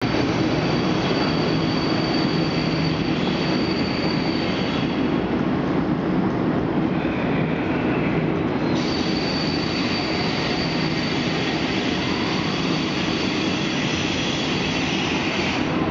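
Electric-locomotive-hauled double-deck regional train pulling into a large train shed: a steady rumble of rolling stock, with a thin, high wheel squeal that drops out around five seconds in and returns about four seconds later.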